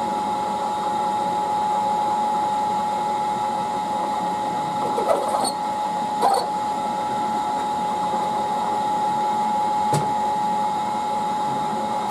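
Milling machine spindle and motor running steadily with a Morse-taper tool fitted, a constant high whine, with a few light knocks around five, six and ten seconds in. It winds down at the end.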